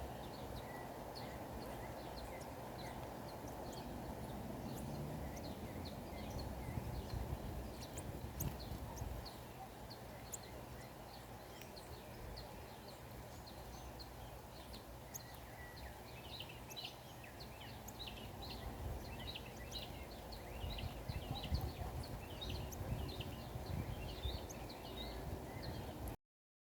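Small birds giving many short, high chirps over a steady low rumble of outdoor background noise; the chirping grows busier in the second half, and the sound cuts off suddenly near the end.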